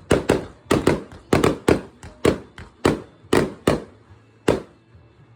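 Fireworks going off in a rapid run of about a dozen sharp bangs, two or three a second, each with a short echoing tail; the bangs stop shortly before the end.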